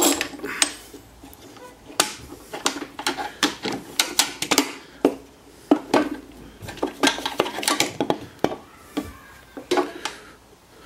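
Irregular clatter of clicks and knocks from drill bits and a wooden ball being handled and set in place while lining up a drill, with no drill running.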